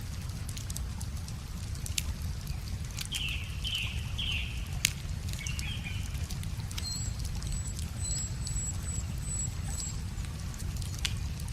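Wood fire crackling with a few sharp pops, over a steady low rush of river water. Birds chirp briefly a few seconds in, and a high, thin run of short notes from a small bird sounds from about seven to ten seconds.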